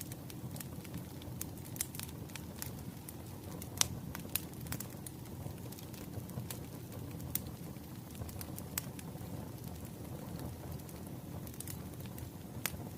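Wood fire crackling: irregular sharp pops and snaps over a steady low rumble of burning logs, the loudest pop about four seconds in.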